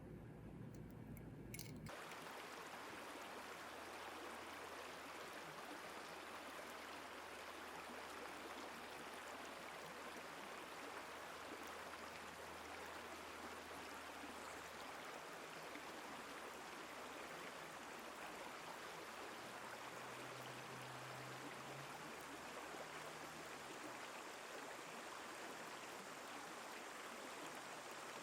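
Steady, even rushing of running water, setting in about two seconds in and holding constant.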